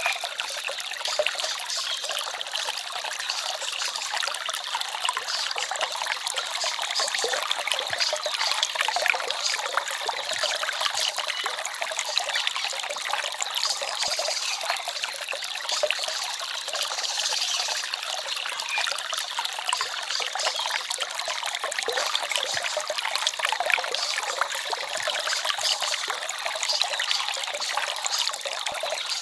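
Small forest stream trickling and babbling over rocks, a steady light water sound with no deep rumble.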